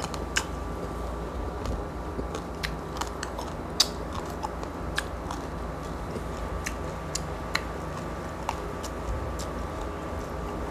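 Close-miked chewing of crispy roast pork lechon: scattered small crunches and mouth clicks, about one or two a second, over a faint steady hum.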